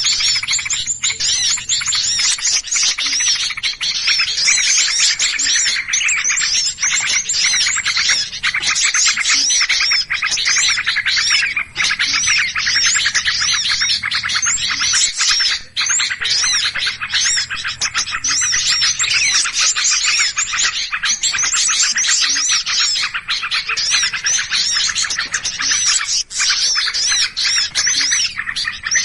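Dense chorus of many small birds chirping and twittering rapidly over one another without a break: a bird-lure recording of agitated, noisy birds used to draw in small wild birds.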